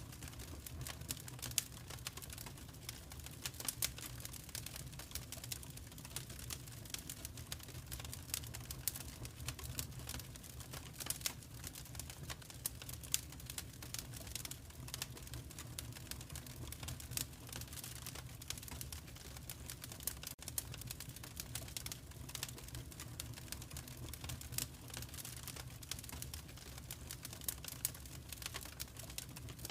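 Fireplace fire crackling: a dense, irregular run of sharp snaps and pops over a steady low rumble of the flames.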